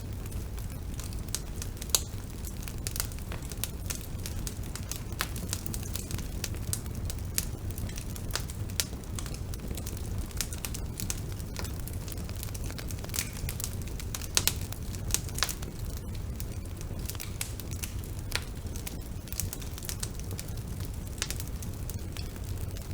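Bonfire burning: a steady low rumble of flames with irregular crackles and sharp pops from the burning wood, a few louder pops about two seconds in and again around the middle.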